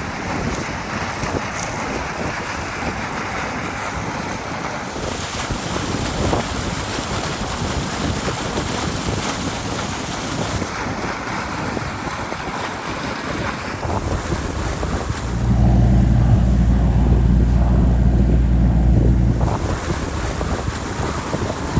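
Water rushing steadily from the broken beaver dam, a continuous even roar. About fifteen seconds in, a low engine drone joins it for about four seconds, then stops.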